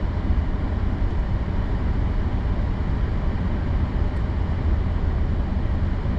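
Steady low engine and road rumble heard from inside a moving vehicle's cab.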